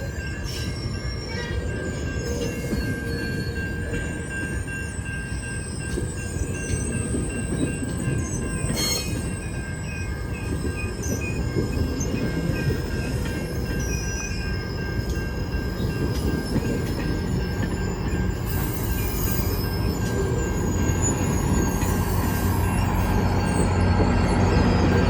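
GO Transit push-pull passenger train rolling past, wheels and rails running with a steady high squeal over the clatter of the cars. A low engine drone grows louder near the end.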